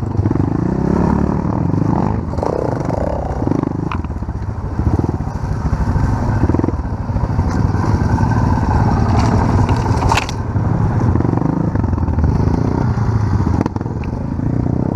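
Small off-road motorcycle engines running and pulling under way, with a few sharp knocks, one near the start and one about two-thirds through.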